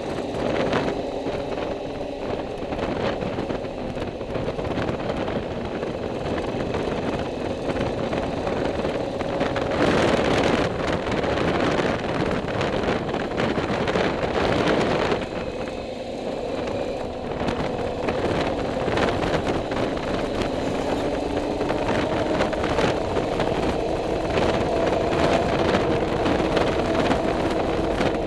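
Engine of a moving vehicle running steadily under wind and road noise, its note drifting slightly as the speed changes. A louder rush of wind or road noise comes in from about ten to fifteen seconds in.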